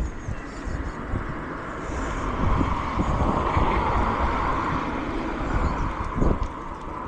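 Wind rumbling on the microphone during a bicycle ride. A passing car's tyre noise swells and fades through the middle.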